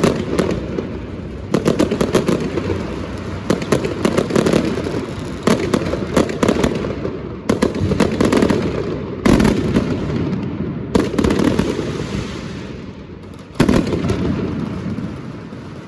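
Fireworks going off in rapid volleys of bangs and crackles. A fresh loud burst comes every second or two, each fading away.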